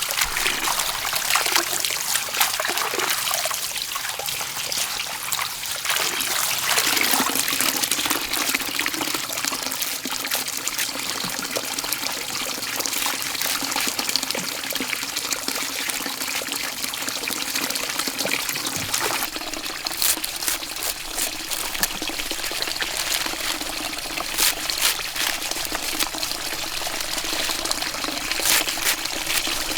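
Steady noise of trickling, splashing water, with scattered sharp ticks in the second half.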